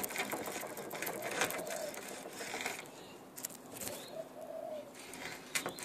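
Spline roller pressed firmly and run along a window screen frame, rolling the rubber spline into its channel with faint rubbing and a few light clicks. A dove coos faintly twice in the background.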